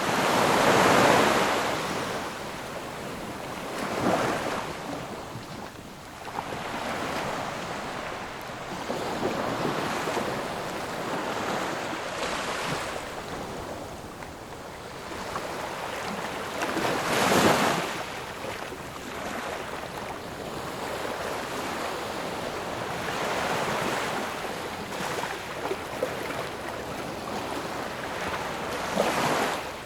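Ocean waves breaking and washing on a shore, a continuous surf with several louder surges; the biggest breakers come about a second in and just past the middle.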